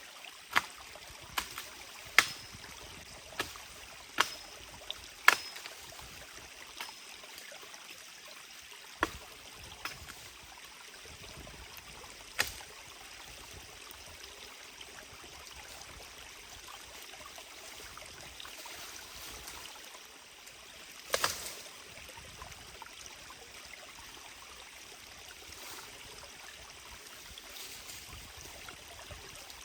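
Stream flowing steadily. Sharp knocks fall about once a second over the first five seconds, a couple more follow later, and there is a short cluster of them about two-thirds of the way through.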